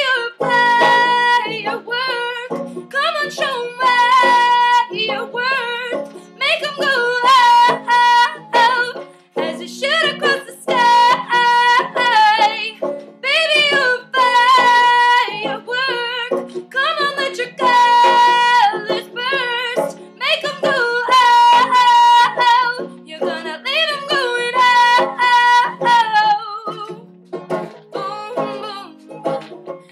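A woman singing over a plucked banjo accompaniment, her held notes wavering with vibrato.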